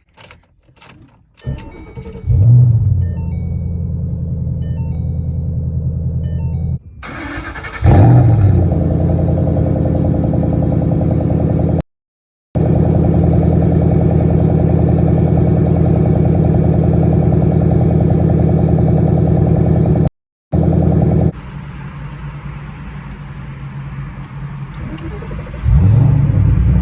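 A Shelby GT500's supercharged V8 is started several times in edited clips. Each start gives a brief rev flare through the exhaust and then settles into a steady, rumbling idle. The clips compare the exhaust before and after a catless off-road X-pipe was fitted, and the idle is quieter in the clip from about two-thirds of the way in.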